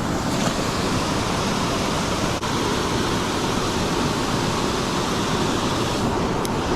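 Steady rushing noise of river water at a spillway, an even hiss with a rumble beneath it.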